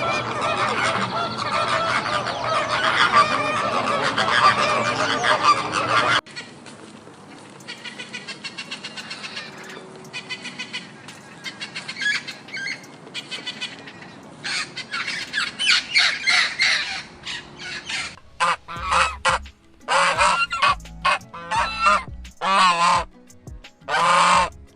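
A sequence of bird calls. First, many overlapping honking calls from a flock for about six seconds, which cut off suddenly. Then fainter calls, and from about two-thirds of the way in, loud calls repeated with short pauses between them.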